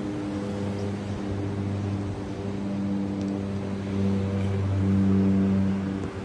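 A vehicle engine running steadily: a low droning hum that holds one pitch and swells a little about four seconds in.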